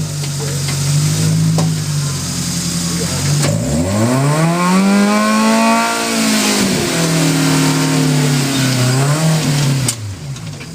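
Suzuki Samurai engine working while rock crawling: it runs steadily, is revved up about three and a half seconds in, held high for a couple of seconds and eased back down, with a smaller blip before settling to a lower idle-like note near the end.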